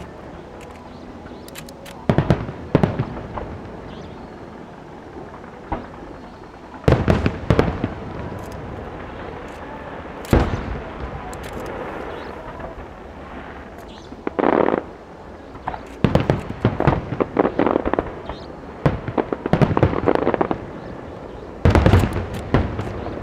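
Aerial fireworks shells bursting in clusters of sharp bangs every few seconds, with a steady background haze between the volleys.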